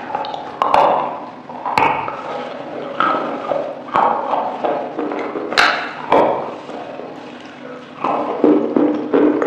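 Close-miked eating sounds: biting into and chewing a chicken wing, with sharp wet clicks and lip smacks coming every second or so.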